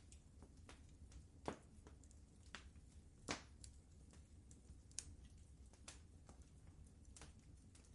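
Wood fire crackling in a fireplace: a soft, steady low rumble of flames with sparse, irregular pops and snaps, the loudest about a second and a half in and again past three seconds.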